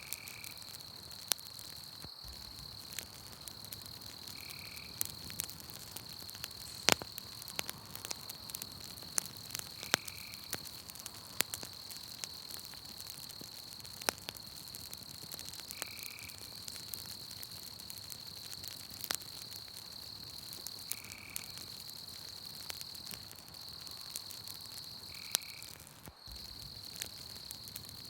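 Campfire crackling with scattered sharp pops, over a steady high night-insect trill. A short high call repeats about every five to six seconds.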